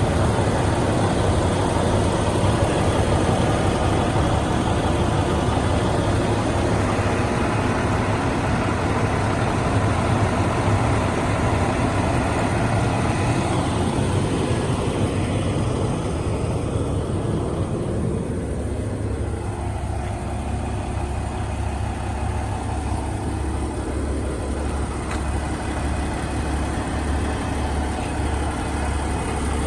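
Cummins X15 diesel engine of a heavy truck idling steadily. About halfway through, the higher hiss fades and a low, pulsing rumble is left.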